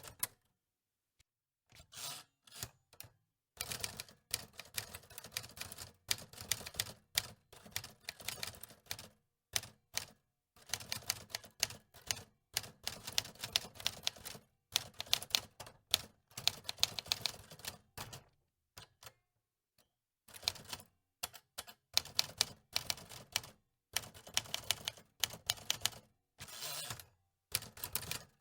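Antique manual typewriter being typed on: runs of key clacks broken by short pauses, with longer breaks about ten and nineteen seconds in.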